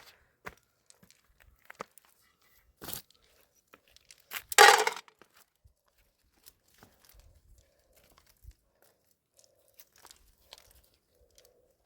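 Scattered light knocks and rustles of things being handled, with one loud tearing crunch lasting about half a second, about four and a half seconds in.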